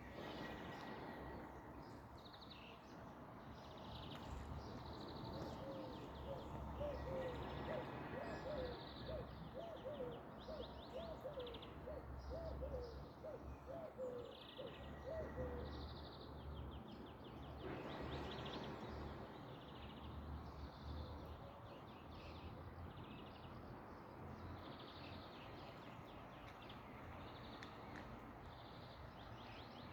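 Small birds chirping over and over, faint, against a steady outdoor background. From about five to sixteen seconds in, a lower, quick run of repeated calls joins them.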